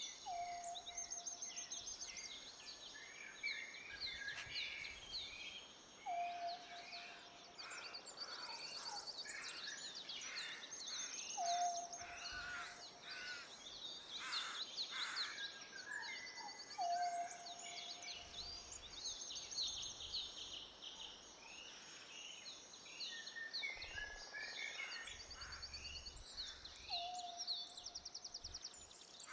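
Many birds chirping and trilling together, with a lower, held whistled note that comes back about every five or six seconds.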